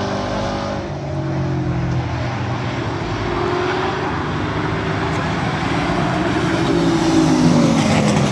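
Several race trucks' engines running at speed on the track, their pitch rising and falling as they pass, with a falling pitch near the end as one goes by close and the sound grows a little louder.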